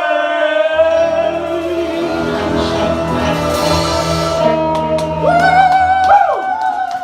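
Live rock band: a singer holds one long note over a sustained low chord, then the voice slides up and down near the end.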